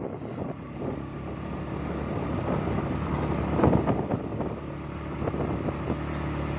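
A vehicle engine running steadily, with a rushing noise over it that swells briefly a little past the middle.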